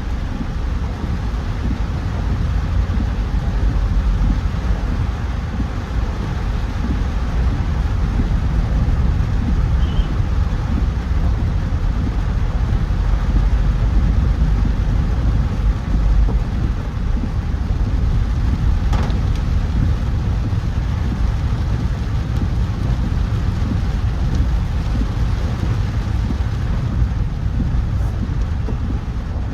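A car driving through heavy rain: a steady low rumble of road and engine noise with the hiss of rain and wet tyres.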